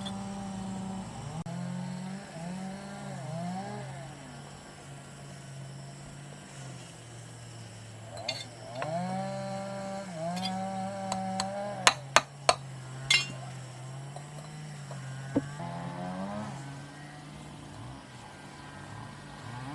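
A small engine running and revving up and down several times. Several sharp knocks come about two-thirds of the way through.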